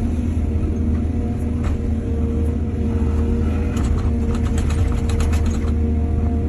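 Excavator's diesel engine running steadily at a constant pitch, with a quick run of clattering knocks from about halfway through that lasts around two seconds.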